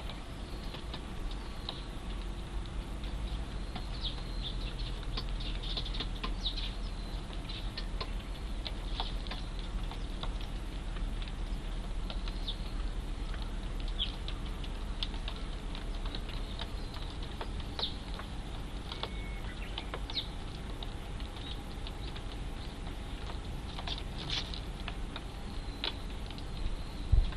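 Eurasian tree sparrow fledglings calling: many short, high chirps at irregular intervals over a low steady hum, with one sharp thump near the end.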